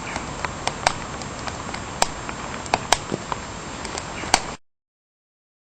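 Wood fire burning in a wood-burning camp stove, with irregular sharp crackles and pops over a steady hiss in light rain; the sound cuts off abruptly about four and a half seconds in.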